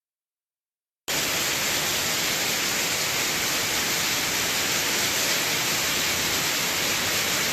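About a second of silence, then a steady, even hiss of heavy storm rain and rushing water.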